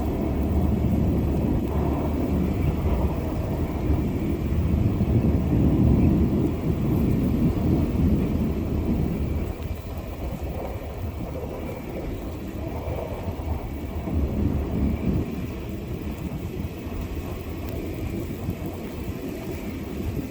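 Blizzard wind gusting hard across the microphone: a low, unsteady rumble that eases about halfway through.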